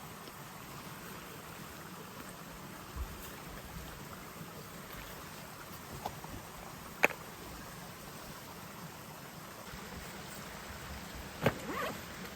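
Steady rush of a mountain stream, with a single sharp click about seven seconds in and a louder knock followed by a brief rattle near the end.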